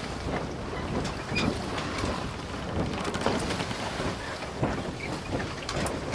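Wind buffeting the microphone over a steady outdoor background hiss, with faint scattered clicks and fragments in it.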